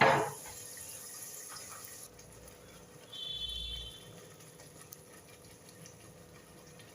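Faint crackle of the masala frying in the pan, with a short high tone about three seconds in.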